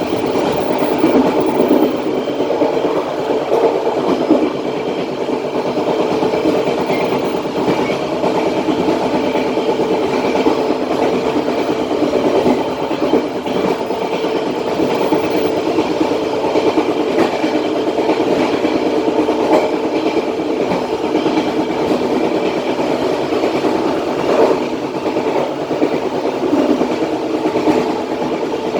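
KA Matarmaja passenger train running along the track: a steady rumble of steel wheels on rails, with a few sharper clacks over the rail joints.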